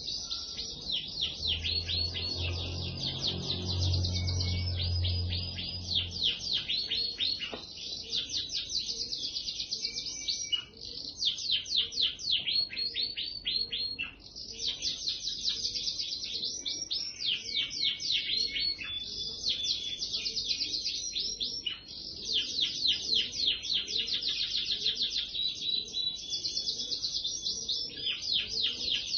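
Domestic canary singing long, continuous rolls of rapid repeated high notes, broken only by brief pauses about ten, fourteen and twenty-two seconds in. A low hum lies under the song for the first few seconds.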